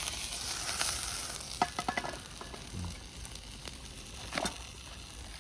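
Rice frying in a pan, sizzling loudest in the first second and a half and fainter after, while it is stirred, with a few sharp clicks of a utensil against the pan.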